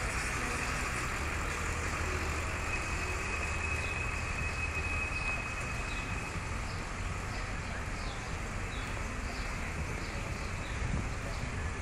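A train rolling past at a distance: a steady rumble and rushing noise. Faint high chirps repeat about twice a second in the later part.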